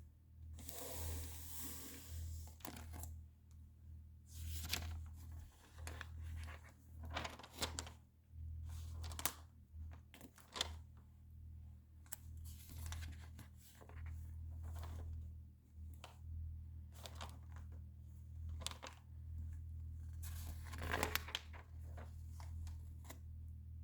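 Magazine pages being turned and handled, a run of papery rustles and crinkles every second or two, the fullest ones about a second in and near the end, over a steady low hum.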